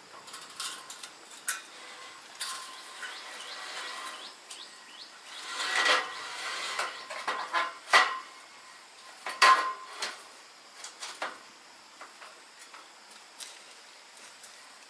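Irregular metal clinks and knocks with brief ringing, as metal objects are handled and set against each other; the loudest strikes come about 6, 8 and 9.5 seconds in, then the sound thins to light ticks.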